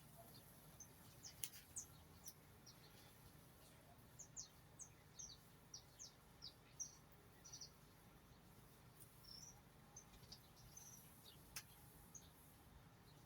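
Small birds chirping faintly: many short, high-pitched calls scattered irregularly, busiest in the middle, over a faint low hum.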